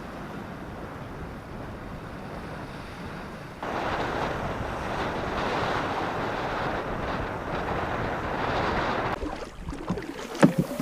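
Wind buffeting the microphone as a steady rumbling hiss. It gets louder about four seconds in, drops away about nine seconds in, and a few sharp knocks follow near the end.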